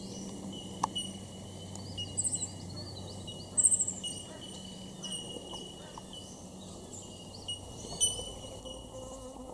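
Small birds chirping at the rainforest edge, with scattered short calls. Two brief high trills, about two and three and a half seconds in, are the loudest sounds.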